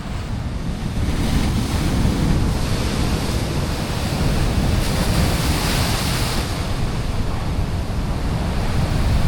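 Ocean swell surging and washing against a rock ledge, with wind buffeting the microphone; the wash swells louder about five seconds in.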